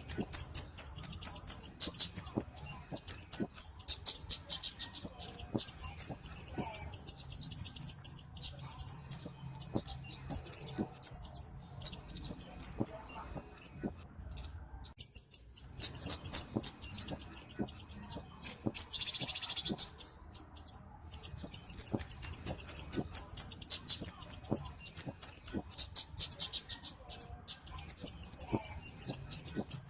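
A flowerpecker (cabe-cabean) calling: long runs of rapid, thin, high-pitched chips, broken by a few pauses of a second or two.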